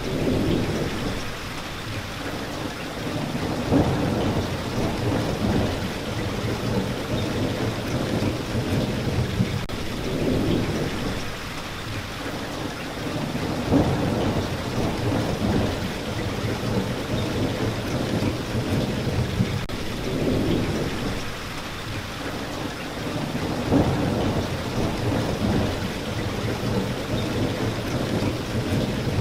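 Steady heavy rain falling, with low rumbles of thunder swelling and fading every few seconds, the strongest about every ten seconds.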